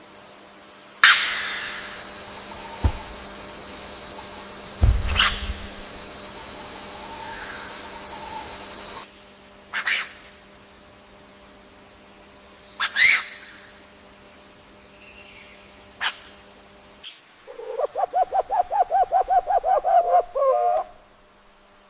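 Tropical forest wildlife ambience: a steady high insect buzz with several short, sharp bird calls. Near the end comes a rapid pulsed call of about six notes a second, lasting about three seconds.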